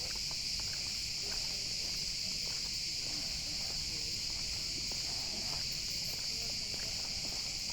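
A chorus of cicadas buzzing without a break, a steady high-pitched drone.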